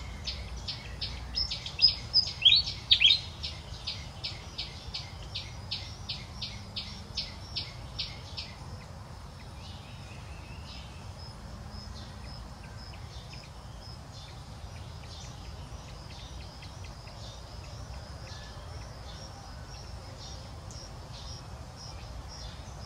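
A bird chirping rapidly in the trees, about three short chirps a second for around eight seconds, with a louder sweeping call a couple of seconds in. It then goes on as fainter, scattered chirps over a steady low rumble of background noise.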